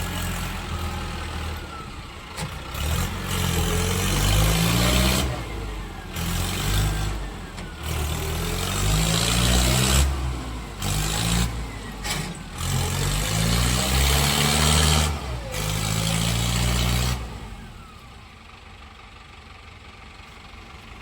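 Heavy diesel engines of a tractor and a backhoe loader running and revving up and down while working, the pitch repeatedly rising and falling. After about seventeen seconds the engine sound drops to a quieter, steady running.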